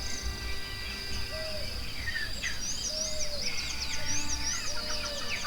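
Forest ambience: birds chirping and twittering in quick rising-and-falling whistles, over a steady high drone of insects.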